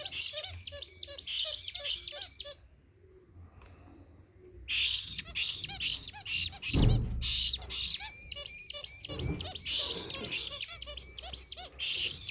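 Baby parrot chicks calling to be fed: rapid, repeated high begging calls, about three a second, that stop for about two seconds and then start again. A couple of low bumps sound partway through.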